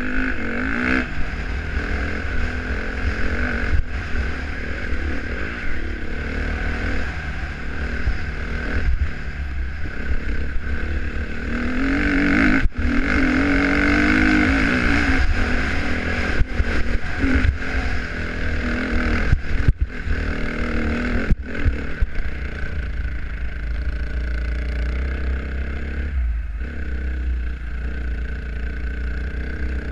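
Dirt bike engine running and revving up and down as it is ridden, with scattered clattering knocks and a steady low rumble throughout.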